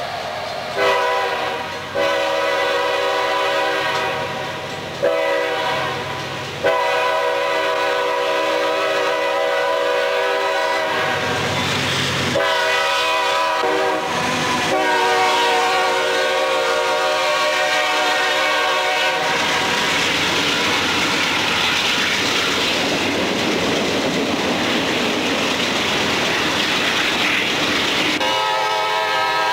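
Diesel freight locomotive's multi-chime air horn sounding a series of long blasts as the train approaches. Then the freight cars roll past close by, wheels clattering over the rail joints, and the horn sounds again near the end.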